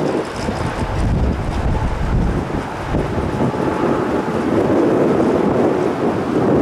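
Strong wind buffeting the microphone: a loud, gusting rumble.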